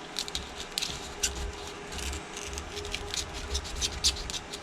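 Thin plastic card being worked under an iPhone XS Max's back glass, giving irregular small scratchy clicks and crackles as the glass is pried up, over a faint steady hum.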